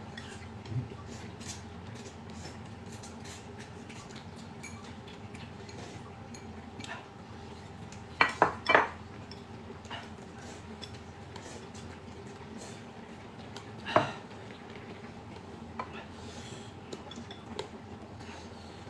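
Tableware clinking during a meal: scattered light taps of utensils on dishes, with three sharp clinks in quick succession about eight seconds in and another about fourteen seconds in.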